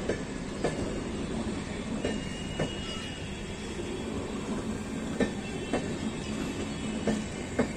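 LHB passenger coaches of an express train rolling past slowly, with a steady rumble. Sharp wheel clacks over rail joints come in pairs about half a second apart, four pairs in all.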